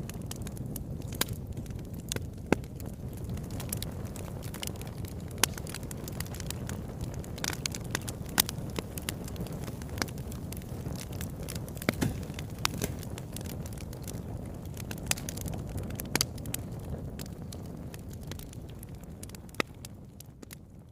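Wood fire burning in a fireplace: a steady low rumble of flames with frequent sharp crackles and pops, fading down over the last few seconds.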